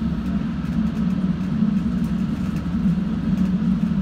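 Steady low rumble of a moving passenger train heard from inside the carriage: wheels running on the track, with faint light ticks over the top.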